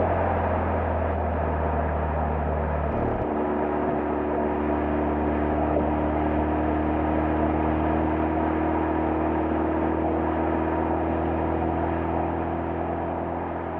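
Exhaust note of a Mazda RX-7 FD3S's twin-turbo 13B two-rotor rotary engine, heard close to the stock muffler, running at a steady pitch while driving. Its tone changes once, about three seconds in, then holds steady.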